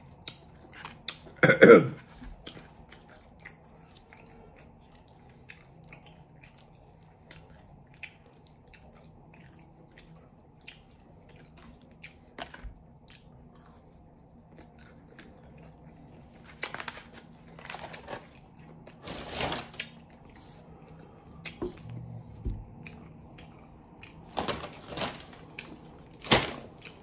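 Close-up mouth sounds of a person chewing the last bites of fast-food fries, with small wet clicks and smacks. There are occasional paper rustles: a loud one about a second and a half in, and more near the end as a paper takeout bag is handled.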